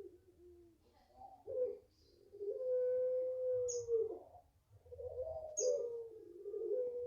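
Puter pelung dove cooing: long, drawn-out, steady low coos, the longest held for about a second and a half, each wavering at its end. A small bird chirps briefly twice.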